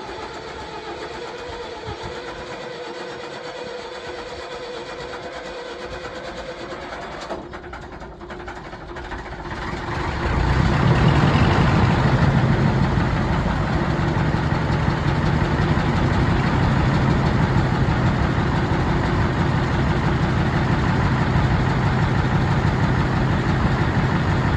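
Gardner 8L3 straight-eight diesel engine on a cold start. A steady whine comes first; about ten seconds in the engine fires and picks up, then runs on steadily with a deep beat.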